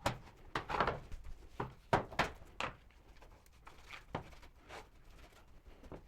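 Irregular knocks and clatters from wooden pieces and tools being handled during carpentry work, several sharp ones in the first three seconds, then fainter and sparser.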